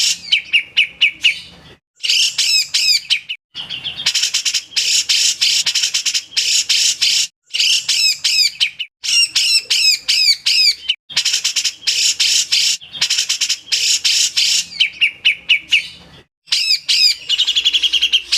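Grey-cheeked bulbul (cucak jenggot) singing its harsh 'besetan' song: long runs of rapid, chattering notes, broken by brief pauses every few seconds.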